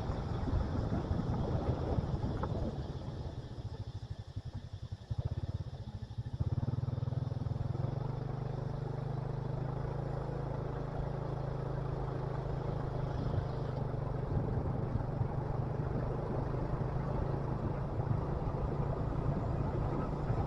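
Motorcycle engine running during a ride, with wind and road noise. The engine drops to a quieter low putter about three seconds in, then picks up again around six seconds in and holds a steady hum.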